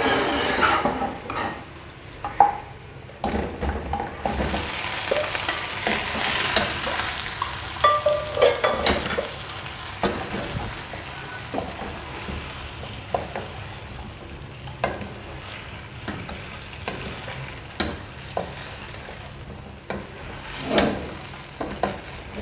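Fried chicken wings tossed and stirred with a wooden spoon in hot honey sauce in a nonstick wok, the burner just switched off. The sauce sizzles, loudest in the first half, with knocks and scrapes of the spoon against the pan.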